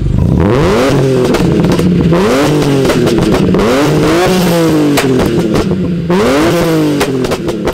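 BMW E46 M3's S54 straight-six on a MAF-delete tune, revved hard about five times, each rev climbing and then falling away, with a few sharp pops from the exhaust as the revs drop.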